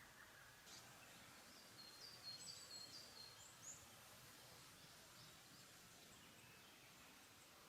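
Faint songbird singing a short phrase of high, quick repeated chirps from about a second in to a few seconds in, over a quiet mountain-forest background hiss.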